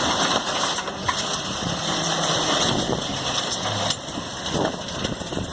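Geesink Norba GPM III refuse truck running with its engine idling: a steady mechanical noise, with a few short knocks about a second in.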